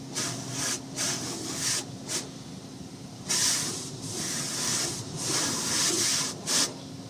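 Automatic car wash's high-pressure water jets spraying against a car in bursts with short gaps, one long spray starting about three seconds in, over a steady low hum.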